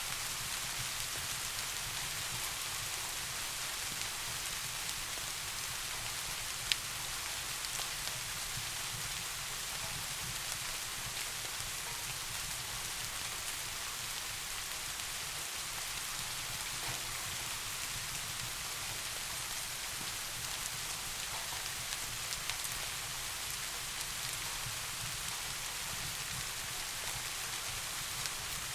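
Steady rain falling, an even hiss without let-up. A few isolated sharp ticks stand out, one about seven seconds in and a couple around twenty-two seconds.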